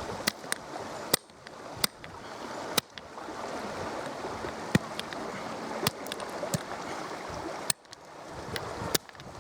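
Sharp knocks of repeated blows struck at a thick river stone, about ten irregularly spaced strikes, over the steady rush of a river.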